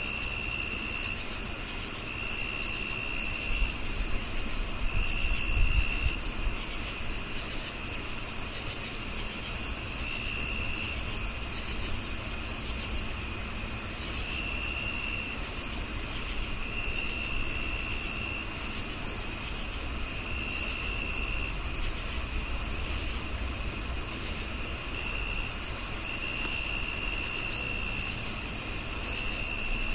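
A chorus of several crickets calling: a steady high trill, a regular chirp about two or three times a second, and a lower trill that comes in for a second or so and stops, over and over. A low rumble swells briefly about five seconds in.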